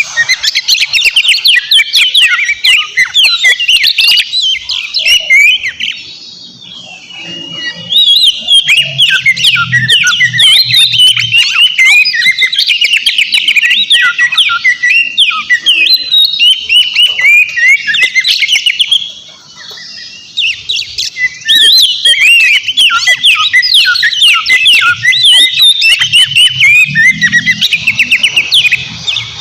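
Oriental magpie-robin singing a loud, fast, varied song of rapid whistled glides and chattering notes, with two brief pauses about six and nineteen seconds in.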